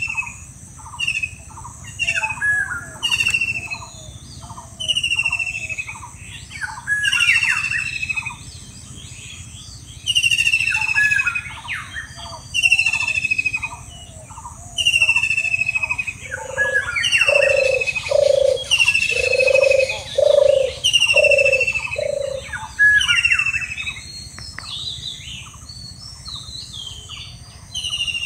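Birds calling and chirping: a short falling whistle repeats about once a second over quick chirps. Midway a lower call sounds six times, about once a second.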